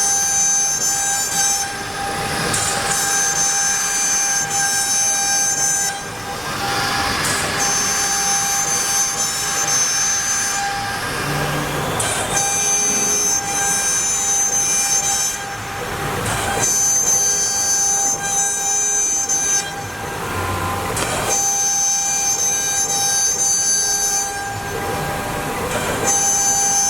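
CNC wood router's water-cooled spindle cutting MDF: a steady high whine made of several fixed tones, shifting briefly every few seconds as the cutter changes direction along its path.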